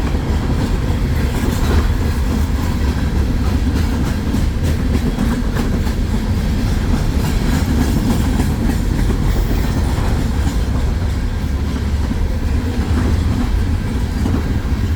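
Freight train cars rolling past, a steady heavy rumble of steel wheels on rail with irregular clicking of wheels over rail joints.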